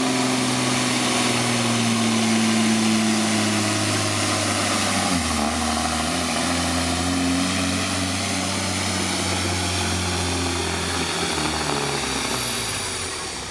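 Freightliner semi's diesel engine at full throttle pulling the sled, one loud steady engine note. About five seconds in the pitch steps down as the engine comes under heavier load, and the sound fades off near the end as the run finishes.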